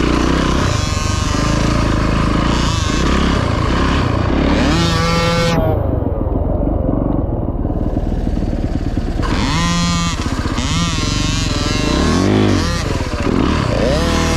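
Dirt bike engine ridden round a motocross track, its pitch rising and falling repeatedly as the throttle is opened and closed. For a few seconds in the middle the sound turns muffled.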